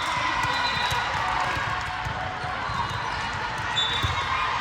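A basketball bouncing repeatedly on a gym floor during live play, among short high squeaks and a steady hubbub of voices in the hall.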